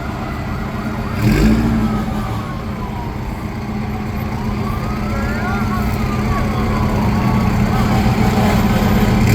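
Parading fire trucks: a heavy engine running steadily, with a siren wailing slowly up and down in the background. Two short, loud blasts stand out, one about a second and a half in and one at the very end.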